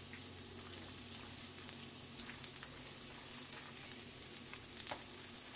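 Rice and garlic frying in a cast-iron skillet for garlic fried rice: a steady sizzle with scattered pops and crackles.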